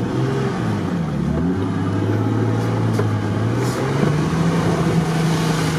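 Off-road 4x4's engine pulling under load through mud, heard from inside the cabin. The engine note dips about a second in, holds steady, then rises about four seconds in as the vehicle drives out.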